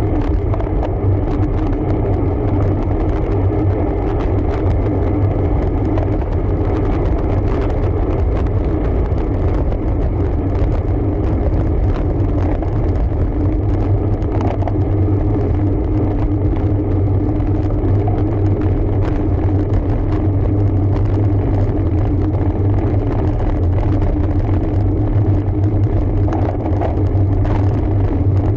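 Anchor RFX8 road bike climbing: a steady low rumble of tyres rolling and drivetrain running, with scattered light ticks.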